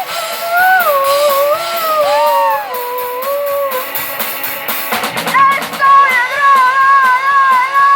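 Live band music: a high voice sings a gliding melody over drums and guitar. About five seconds in, the voice breaks briefly and fast cymbal and drum strokes come through, then the singing resumes.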